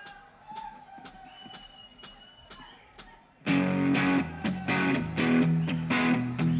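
A band playing live: quiet, evenly spaced ticks about three a second with a few faint held guitar notes, then about three and a half seconds in the full band comes in loud with strummed electric guitar.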